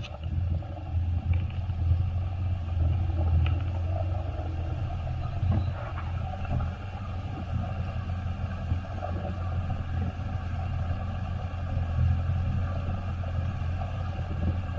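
A vehicle engine running with a steady low rumble, its loudness rising and falling unevenly.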